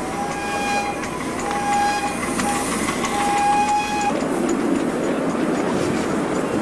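Miniature railway locomotive sounding a single-note whistle four times: two short blasts, a very brief toot, then a longer blast.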